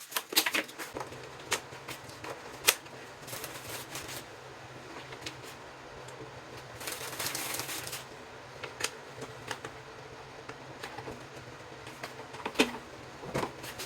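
Scattered light clicks and knocks of cabinet parts and hardware being handled during assembly, with one sharper knock a few seconds in and a second or so of rustling about seven seconds in.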